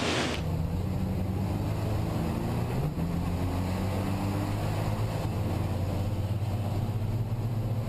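Racing truck's diesel engine running under load, a steady low engine note with little change in pitch.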